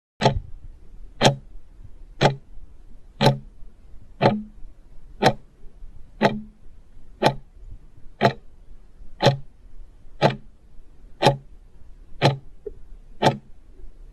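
Clock ticking evenly about once a second: a countdown timer sound effect.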